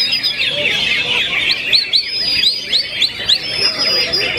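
Cucak ijo (greater green leafbird) song in a thick chorus of many songbirds singing at once, with a long held whistle and, in the middle, a quick run of rising whistled notes about five a second.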